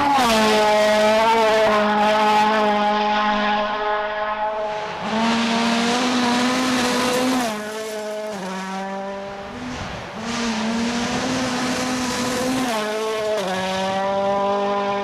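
World Rally Car's 1.6-litre turbocharged four-cylinder engine running hard at high revs, its pitch held steady for seconds at a time, then dropping and climbing back several times as the driver lifts and shifts.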